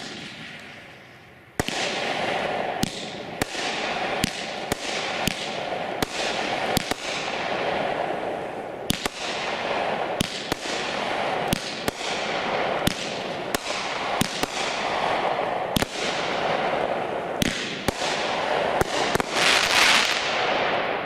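Shogun consumer fireworks cake firing a steady run of sharp shots, about one to two a second, with a continuous hiss and crackle of breaking shells between them. A denser flurry comes near the end before it dies away.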